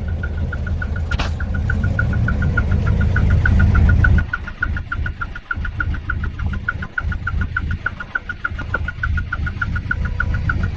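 Hino Profia truck's diesel engine heard through its dual muffler, held at raised revs that climb for about four seconds, then drop abruptly back to an uneven idle. A rapid high-pitched beeping, about five to six beeps a second, runs throughout, with a single sharp click about a second in.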